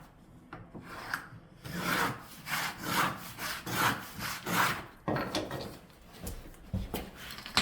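A hand tool rasping back and forth on wooden flooring in a run of even strokes, about two a second, through the middle, with a few weaker strokes after.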